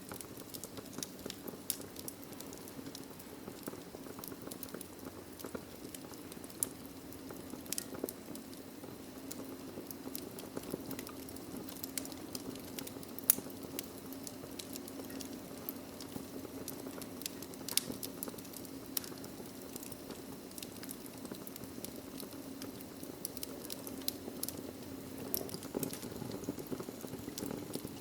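Wood fire crackling in a fireplace: a steady low hiss and rumble of burning logs with irregular sharp pops and snaps, the loudest pops about halfway through and a little after.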